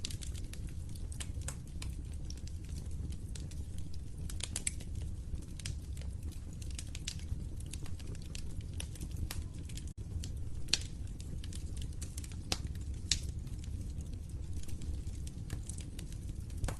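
Wood fire crackling in a fireplace: a steady low rumble of burning with frequent irregular sharp pops and snaps, a few louder ones in the second half. A split-second gap about ten seconds in.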